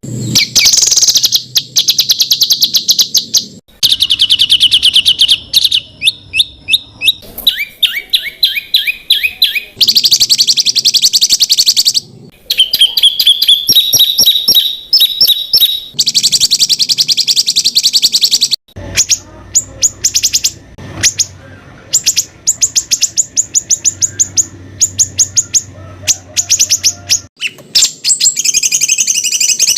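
Songbird song: fast runs of sharply repeated notes, some sliding in pitch, in the rapid-fire 'tembakan' style. The song comes in separate passages that break off abruptly a few times.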